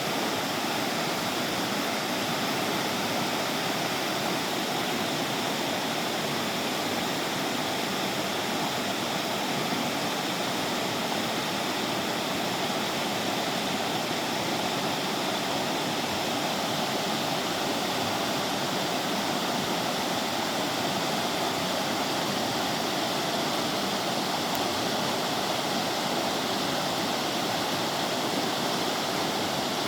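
River water rushing and splashing steadily over rocks, a continuous even rush with no breaks.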